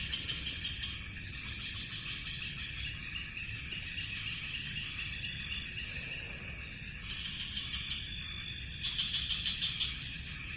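Night forest insect chorus: a steady high-pitched buzz, with bouts of fast pulsed chirping near the start, about three seconds in, and again in the last few seconds.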